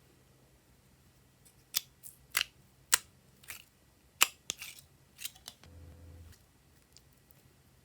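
A run of about eight sharp clicks and snaps, irregularly spaced a third to half a second apart, from hands working slime and its containers, followed near the end by a brief low hum.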